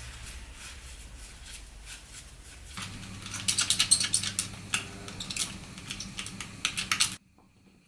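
Rapid metallic clicking and knocking from hand tools and parts during transmission work, over a low steady hum. The clicks start about three seconds in, come thick and fast with some sharp louder knocks, and the sound cuts off abruptly near the end.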